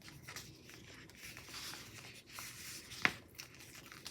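Paper sticker sheet handled, with a rasping peel as a sticker comes off its backing, and one sharp tap about three seconds in.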